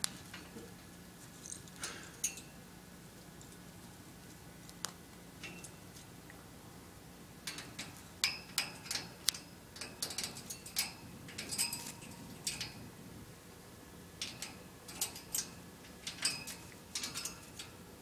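A pet bird making rapid short chirps and clicks in scattered bursts, busiest in the middle and again near the end.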